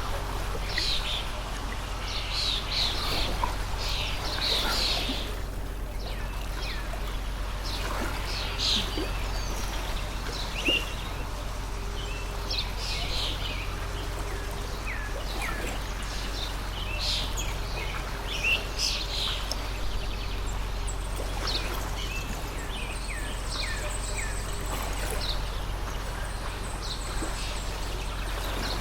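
Many small birds chirping and calling, short quick notes one after another, over the steady rush of a running stream.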